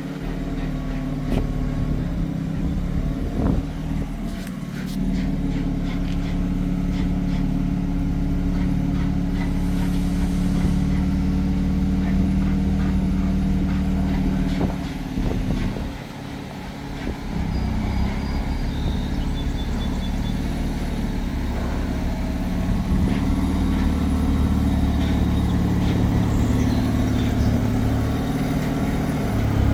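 A heavy engine running steadily, easing off for a couple of seconds about halfway through and then picking up again, with a few knocks in the first few seconds.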